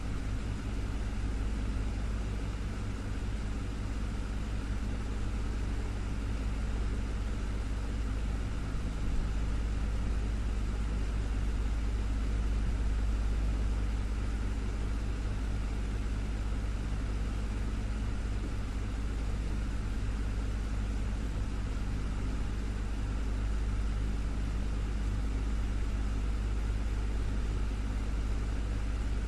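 Desktop fan running steadily: a deep, constant hum with a few steady tones above it and an even rush of air.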